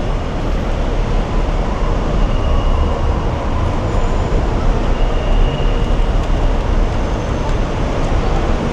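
Steady, loud low rumble of a running vehicle.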